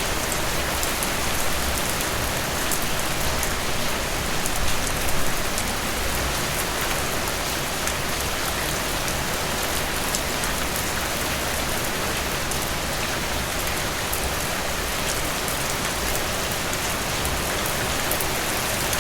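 Steady rain falling, an even hiss with many fine drop ticks, swelling slightly about five seconds in.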